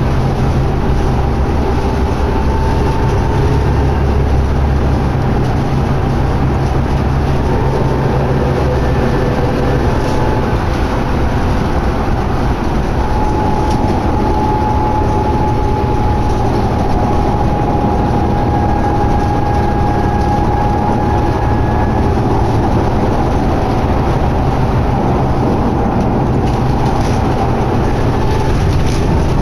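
Inside a 2011 New Flyer D60LFR articulated diesel bus under way: steady engine and drivetrain rumble with road and tyre noise, and a faint high whine that comes and goes in the middle.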